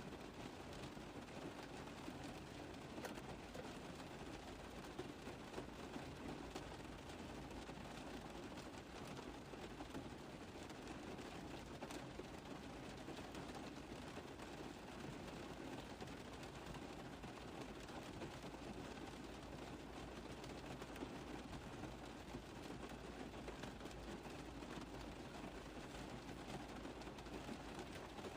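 Rain falling on a car roof: a steady, dense patter of many small drop impacts.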